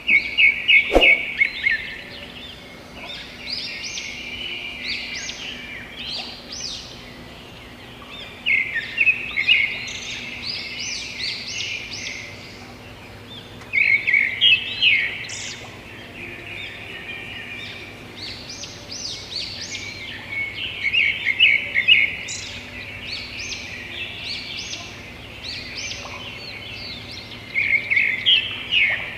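Songbird calls: a quick chattering phrase of rapid notes repeating about every six seconds, with softer scattered calls in between. A single sharp click about a second in.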